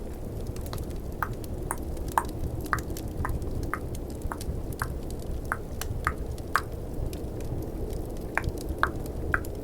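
Close-miked tongue clicking, short wet mouth clicks about two a second, pausing briefly near the end before starting again. Underneath runs a steady snowstorm and fireplace ambience track.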